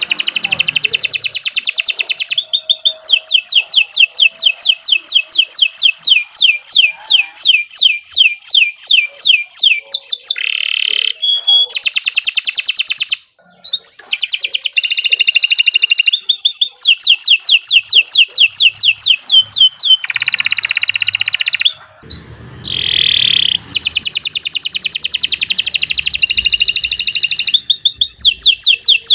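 Domestic canary singing a long, unbroken song made of fast trills of rapidly repeated notes, switching from one trill to the next every few seconds, with a brief pause about 13 seconds in.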